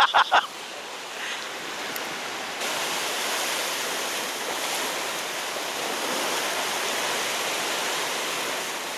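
Steady rushing of sea waves washing against a rocky shore, growing louder about two and a half seconds in.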